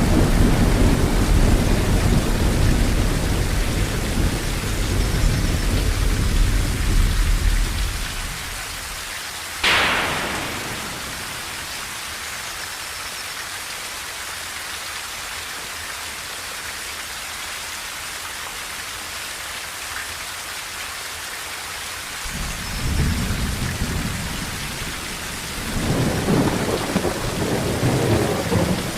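Steady rain drumming on a tin roof through a thunderstorm. Low rolling thunder rumbles for the first several seconds, and a sharp thunderclap cracks about ten seconds in and dies away. Then comes a stretch of rain alone before thunder rumbles again near the end.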